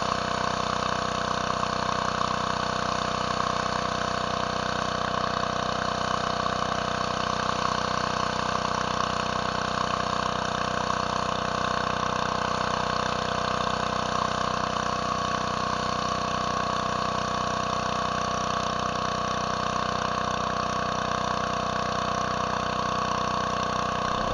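Gas-engine pressure washer running steadily at an even pitch.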